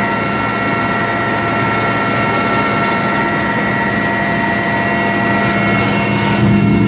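Military helicopter in flight, heard from inside the cabin: a loud, steady drone of engines and rotor with several steady high-pitched whining tones over it, the tone shifting slightly near the end.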